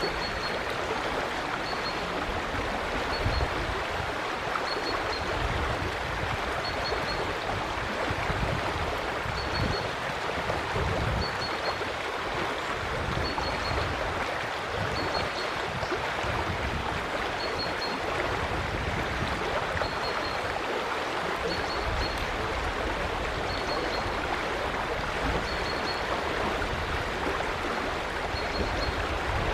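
River water flowing steadily with a continuous rushing sound. A small bird's short, high chirp repeats about every two seconds over it.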